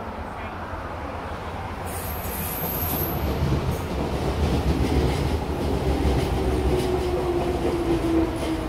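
A Nankai 6200 series six-car, resistance-controlled electric train pulls into the platform and rolls past, its wheels rumbling and clattering over the rail joints and getting louder as the cars come alongside. From about halfway through, a whine slides steadily down in pitch as the train slows for its stop.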